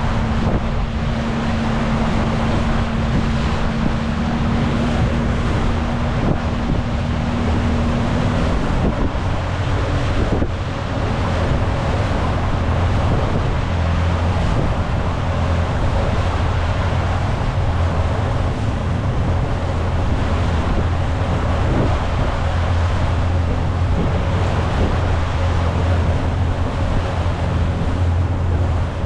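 Rigid inflatable speedboat running at speed: a steady engine drone under heavy wind buffeting on the microphone and water rushing past the hull. The engine note shifts lower about eight seconds in.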